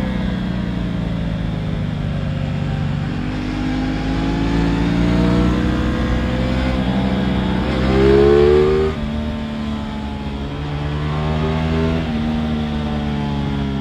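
Aprilia RS 660's parallel-twin engine under way, its pitch rising and falling through the gears. About eight seconds in it revs up to its loudest, then drops suddenly as the throttle closes.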